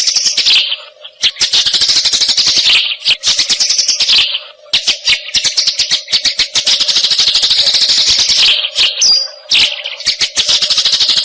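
Eurasian tree sparrows giving fast, harsh chattering chirps in dense runs of many notes a second, broken by a few short pauses: the excited 'fighting' calls of sparrows.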